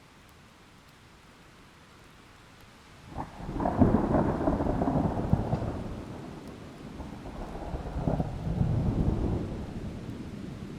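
Steady hiss of rain, with a thunderclap breaking suddenly about three seconds in and rolling for a few seconds. A second rumble of thunder swells and fades near the end.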